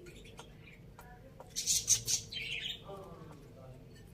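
Chickens feeding: a few light pecking clicks, then a brief loud burst of high chirping about halfway through.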